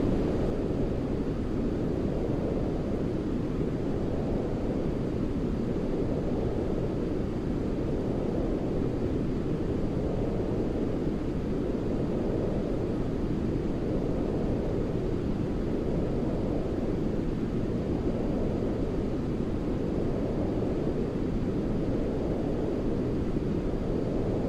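Deep, steady sleep noise: a low, muffled hiss weighted toward the bass, like brown noise. It swells and eases gently every few seconds.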